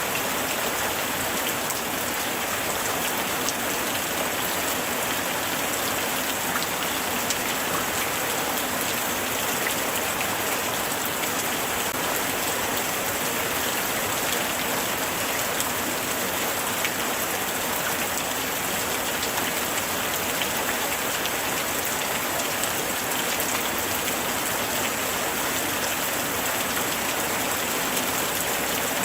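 Steady light rain falling, a dense even patter of many small drops without a break.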